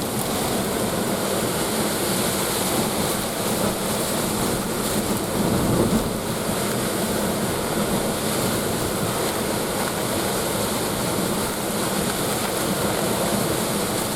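Hurricane Ida's winds rushing steadily and buffeting the microphone, with a stronger gust about six seconds in.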